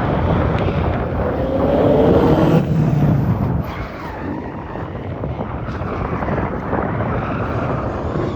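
Rally car accelerating hard on a stage, its engine note climbing to its loudest about two and a half seconds in, then dropping away as another engine note carries on.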